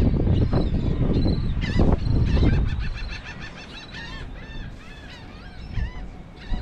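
Birds calling: a quick run of short calls that rise and fall in pitch, coming in the second half after a loud low rushing noise.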